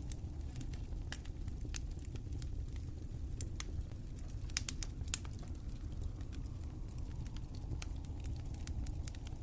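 Fire crackling: irregular sharp pops and snaps over a low, steady rumble of the flames.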